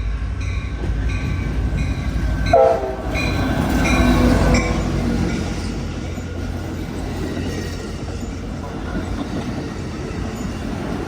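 Capitol Corridor passenger train with an EMD F59PHI diesel locomotive pulling into the station: a bell rings about twice a second, a short horn blast sounds about two and a half seconds in, and the train rolls in with a steady low rumble that swells around four seconds before easing off.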